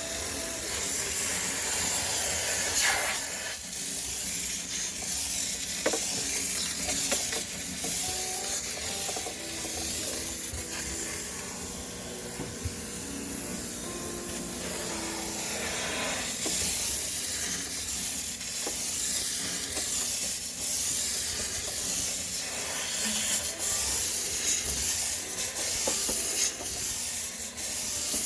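High-pressure steam cleaner hissing steadily as it sterilises a sneaker washing machine, getting somewhat louder about halfway through.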